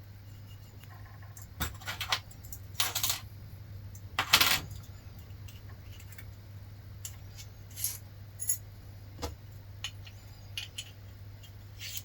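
Small metal parts and tools clinking and rattling as they are handled: a scatter of short clinks, with two longer rattles in the first half, the loudest about four seconds in.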